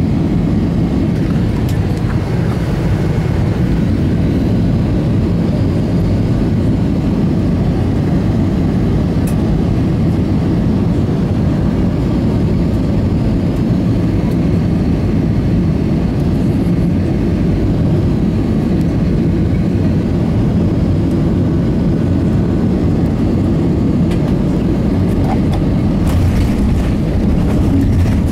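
Airbus A320 jet engines and airflow heard from inside the passenger cabin on final approach: a steady, loud, low noise.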